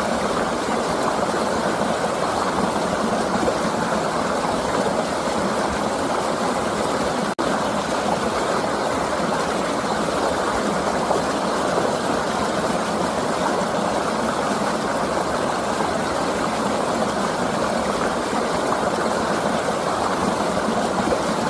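Flowing river rushing as a steady, even noise, broken only by a momentary dropout about seven seconds in.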